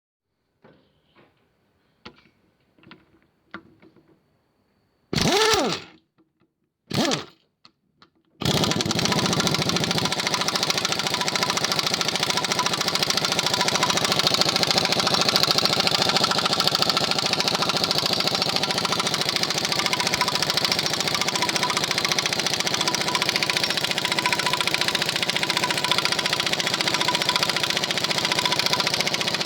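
Matchless G9 500cc parallel-twin motorcycle engine being started: a few light clicks, then two brief loud bursts, then it catches about eight seconds in and runs steadily.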